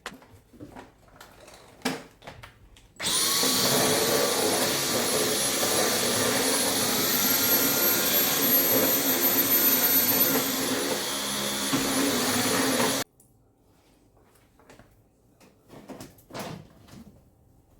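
Vacuum cleaner switched on and running for about ten seconds, its high motor whine rising in pitch midway and dropping back, then switched off abruptly. Light knocks and handling sounds before and after.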